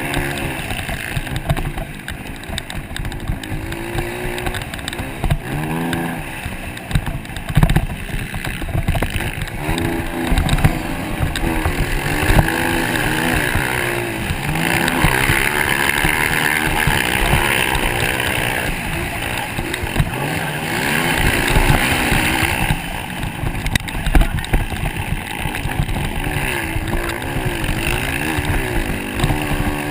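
Motocross motorcycle engines revving up and down as the bikes race, their pitch rising and falling again and again.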